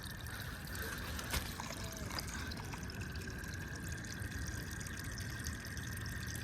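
Water trickling steadily, with a faint steady high tone underneath and a single sharp click about a second and a half in.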